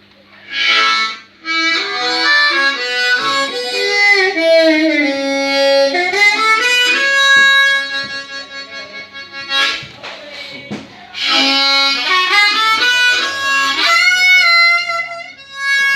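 Blues harmonica playing a solo with bent notes that slide down in pitch, in phrases broken by short breaths.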